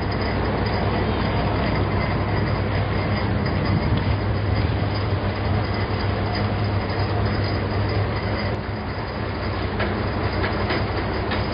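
Train running by: a loud, steady rumble and rush of rail cars over a low hum, unbroken throughout.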